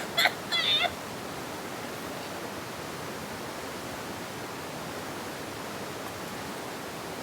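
Steady, even rushing background noise with no distinct events, opening with a few short, sharp clicking sounds in the first second.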